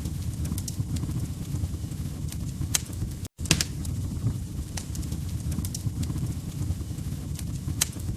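Wood fire crackling: scattered sharp pops and snaps over a steady low rumble of burning logs. The sound cuts out for an instant about three seconds in.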